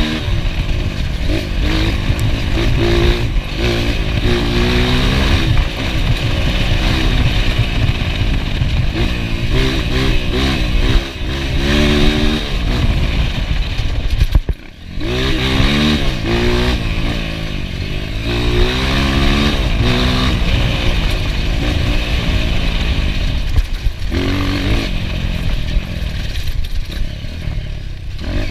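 Enduro motorcycle engine revving hard, its pitch climbing and falling over and over as the throttle opens and closes and gears change, with loose rattling from the bike. About halfway through the engine note drops away briefly before it picks up again.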